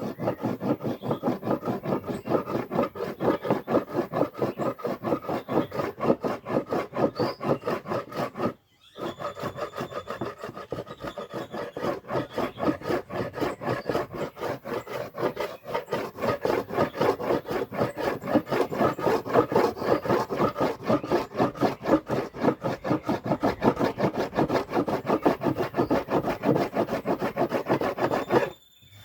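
A hand tool worked over wood in rapid, even back-and-forth strokes, several a second, such as hand sawing or rasping. The strokes pause briefly about a third of the way in, then carry on until just before the end.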